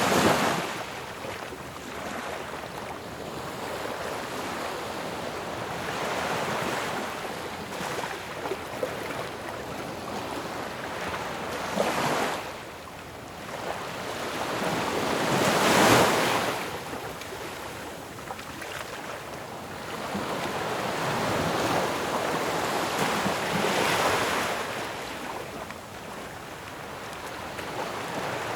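Ocean surf: waves breaking one after another in a continuous wash, with the loudest crashes about halfway through and again near the end.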